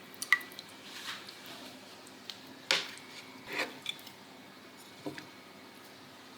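A few light knocks and clatters of dishes and utensils being handled and set down, the loudest about two and a half seconds in.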